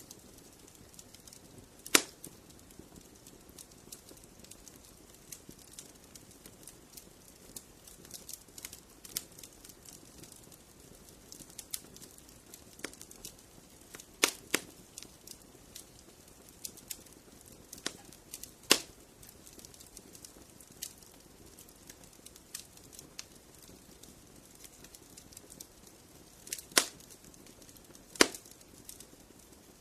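Fireplace fire crackling: scattered small crackles over a faint hiss, with about five sharp, loud pops spread through.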